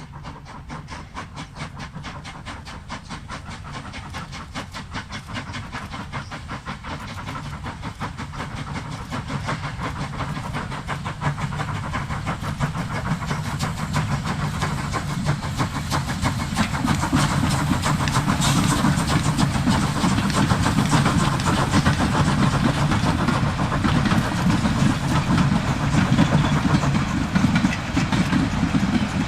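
Steam train running on the line, getting steadily louder as it draws near, with a fast, even clatter throughout.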